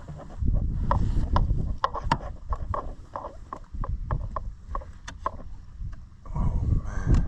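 Irregular knocks and clicks from handling on a small fishing boat, over a low rumble of wind on the microphone that swells early on and again near the end.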